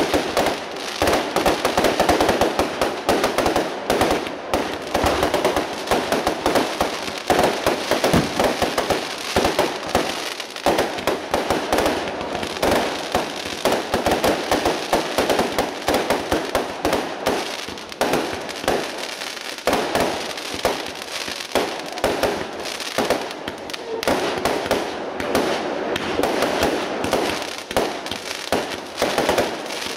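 Professional fireworks display: a continuous rapid barrage of bangs and crackling from aerial bursts and low-level multishot fireworks, many reports a second with no pause.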